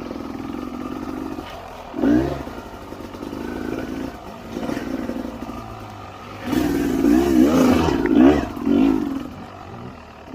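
Dirt bike engine running under the rider, its revs rising and falling in short bursts, with a louder run of quick revs from about six and a half to nine seconds in.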